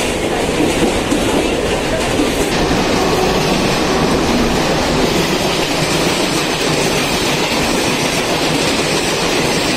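Mumbai suburban local train running at speed, a steady loud rumble and rattle of wheels on the track with clickety-clack over the rail joints.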